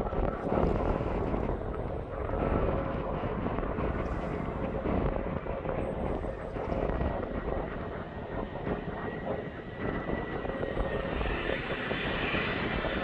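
Jet airliner engines running: a steady rushing roar with a faint whine, which grows stronger in the higher range near the end.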